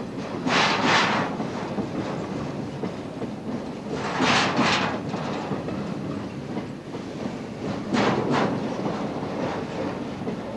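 Freight cars carrying highway trailers rolling past at close range: a steady rumble of steel wheels on rail, with a louder double clickety-clack about every four seconds as each car's wheel trucks go by.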